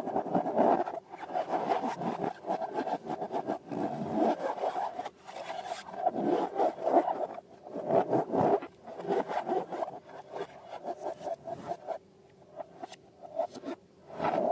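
Balloons and slime being handled and worked by hand: continuous, irregular rubbing sounds dense with small clicks, easing off for about two seconds near the end.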